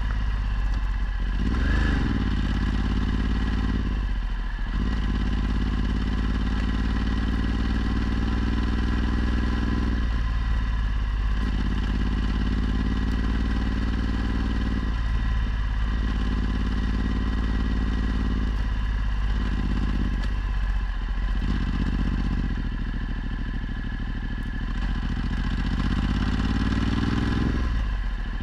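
Ducati Multistrada 1260's V-twin engine through a Termignoni exhaust, running under way. It revs up briefly about two seconds in, drops away several times as the throttle closes, and rises in revs again near the end.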